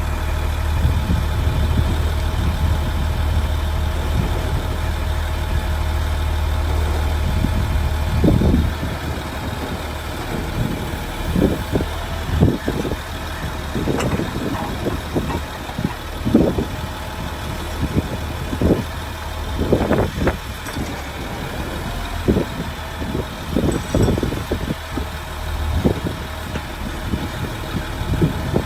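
Ford F750 Super Duty truck engine idling steadily. From about eight seconds in, irregular short thumps and rustles sound over the idle.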